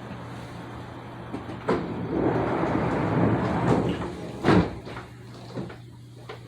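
Commuter train's sliding passenger doors closing: a rush of air-like noise for about two seconds, then a loud thud about four and a half seconds in and a few lighter knocks, over the car's steady low hum.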